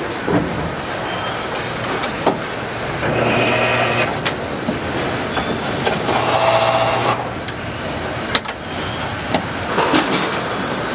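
Assembly-line factory din: a steady machinery noise with scattered sharp metallic clicks and knocks. Twice, for about a second each, a machine's buzzing whine rises over it.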